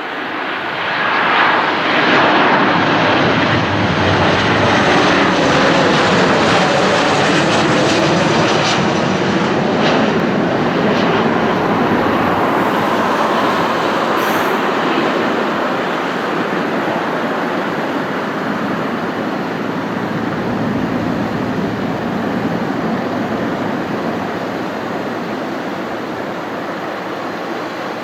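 Boeing 737-800's CFM56-7B jet engines on landing approach. The sound swells quickly as the airliner passes close by, with a shifting, whooshing tone at its loudest, then slowly fades as it moves away.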